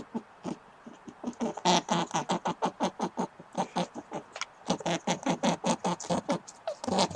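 An animal giving rapid runs of short calls, about five or six a second, with brief pauses between runs.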